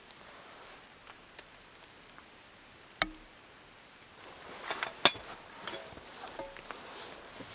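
Objects being handled: one sharp knock about three seconds in, then from about four seconds a cluster of clicks and light, briefly ringing clinks, like camp dishes and utensils being moved.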